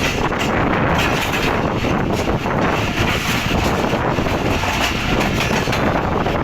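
Pakistan Railways passenger train running on the track: a steady rumble of wheels and coaches, mixed with wind buffeting the microphone.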